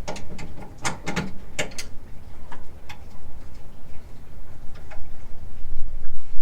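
Hand tools working on the rear shock absorber mounting: irregular sharp metallic clicks and knocks, clustered in the first two seconds and sparser after, over a steady low rumble.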